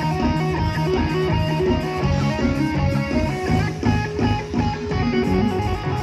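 Live band music: electric guitar lines over bass guitar and a drum kit keeping a steady beat.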